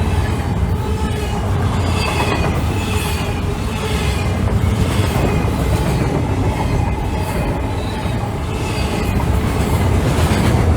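Freight train cars rolling past: a steady low rumble, with wheels clacking over rail joints about once a second and brief faint wheel squeals.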